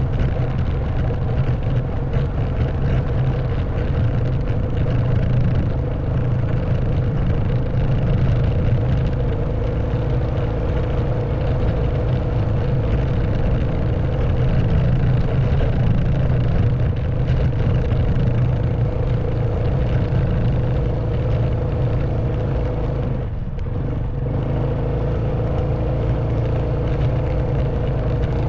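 Honda Wave 110cc single-cylinder four-stroke motorbike engine running steadily under way, heard from the rider's seat. The engine dips briefly, as if the throttle is eased off, about four-fifths of the way through, then picks up again.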